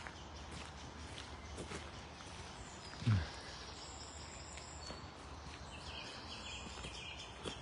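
Footsteps on a park path with birds chirping faintly in the background, and a single short low thump about three seconds in.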